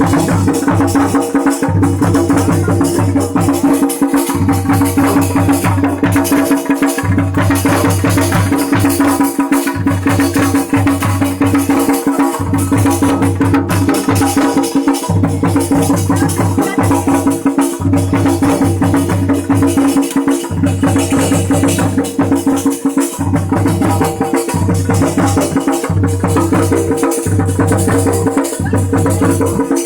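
Uttarakhandi jagar devotional music: fast, driving drumming with clattering percussion over a steady held tone.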